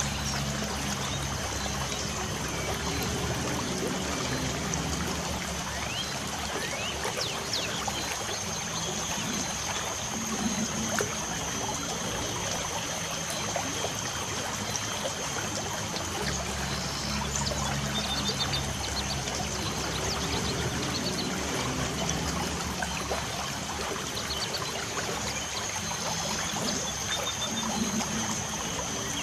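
Light rain falling steadily, a soft even hiss with fine drip ticks, and a few brief bird chirps about two-thirds of the way in and near the end, over a thin steady high tone.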